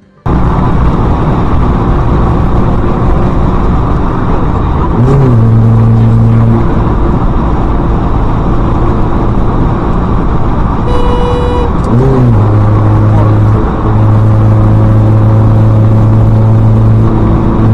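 Loud, steady road and engine noise from a vehicle on the move. A low drawn-out tone comes in twice over it: briefly about five seconds in, then for about five seconds from about twelve seconds in.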